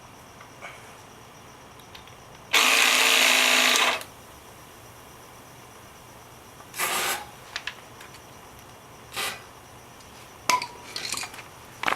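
A small motor whirs loudly and steadily for about a second and a half, then stops; later come a few short, hissing bursts of noise.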